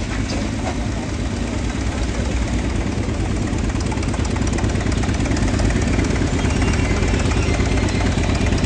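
The engine of an old air compressor running steadily with a low, even drone, getting slightly louder toward the end.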